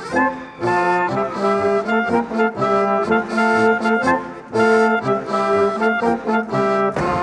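Brass band music with trombones and trumpets, plus some accordion, playing a brisk folk-dance tune with a steady beat.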